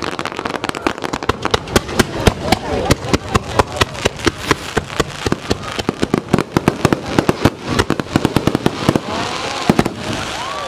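Starmine fireworks barrage: aerial shells bursting in quick succession, several loud bangs a second, with a hissing crackle of glittering stars near the end.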